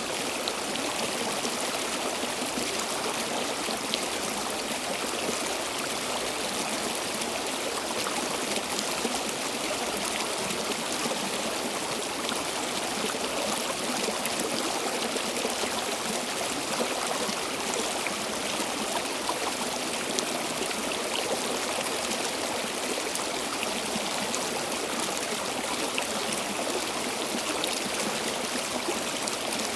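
Stream water flowing, a steady rush with faint small splashes and trickles scattered through it.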